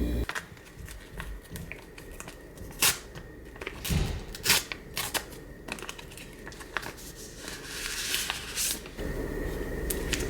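Scattered clicks, taps and rustling of small objects being handled, with louder knocks about three and four and a half seconds in.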